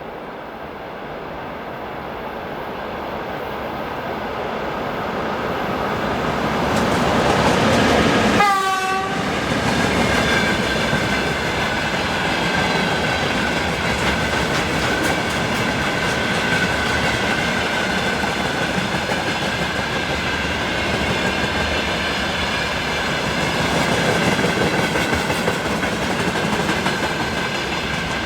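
An electric train approaches and passes close by. Its rumble builds over the first eight seconds, then a pitched tone drops sharply in pitch as the train goes past. A steady high whine continues over the clatter of wheels on rail joints as the cars roll by.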